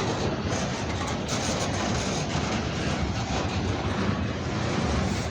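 CN freight train rolling slowly past at close range, a steady noise of its wheels and cars on the rails.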